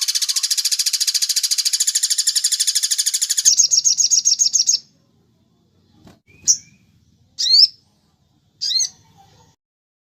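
Bird calls played for song training: a loud, rapid high-pitched trill of about ten notes a second changes to a faster trill and breaks off abruptly about five seconds in. Three short, sharp chirps follow, a second or so apart.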